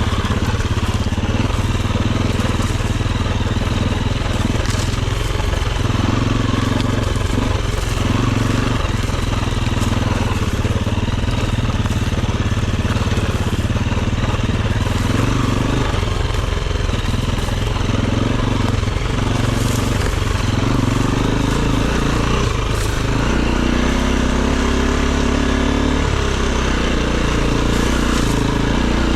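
Dirt bike engine running under a rider, the pitch rising and falling every second or two as the throttle opens and closes.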